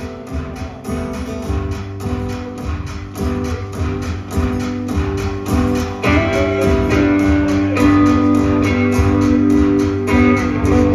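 Live rock band playing an instrumental passage with no vocals: strummed guitars over a steady drum beat, growing louder and fuller about six seconds in.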